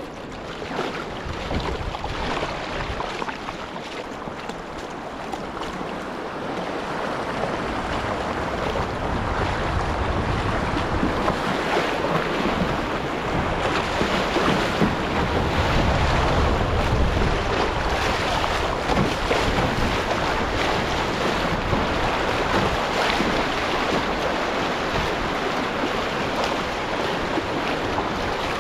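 Rushing river water, a steady noisy wash that grows louder toward the middle, with wind buffeting the microphone in low gusts.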